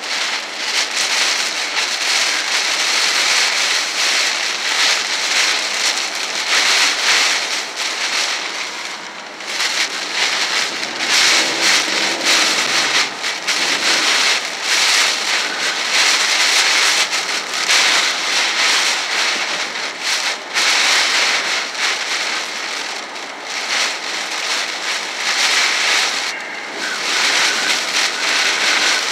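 Heavy wind-driven rain pelting a moving car, heard from inside the cabin: a dense, crackling drumming on the roof and windshield under tyre and wind noise, surging and easing in gusts.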